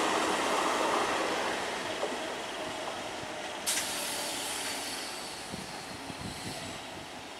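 Electric multiple-unit local train running along the track, its rumble and rail hiss steadily fading away, with a single sharp click about halfway through.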